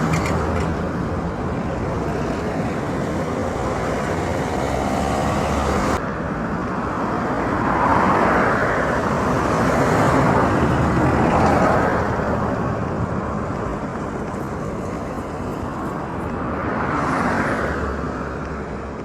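Street traffic: a steady rush of road noise with vehicles passing by, swelling louder several times as they go past. The sound changes abruptly about six seconds in.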